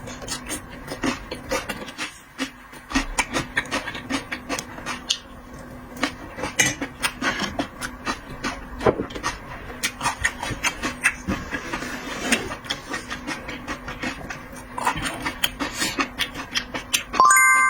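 Close-miked mukbang eating of seafood: a steady stream of sharp wet clicks and smacks from chewing and handling shellfish, over a faint steady hum. Near the end a sudden loud bright ringing tone sounds briefly.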